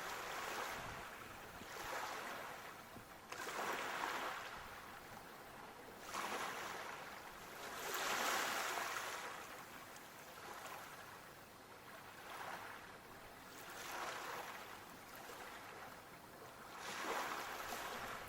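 Water washing in repeated swells, like small waves breaking and drawing back, each surge lasting a second or so, about every two seconds.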